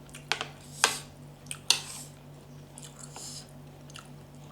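Close-miked chewing of santol salad: a few sharp, crisp bites and wet mouth sounds in the first two seconds, then softer chewing.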